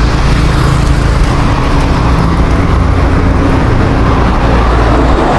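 Road traffic: a car engine running close by, a steady low hum over traffic noise.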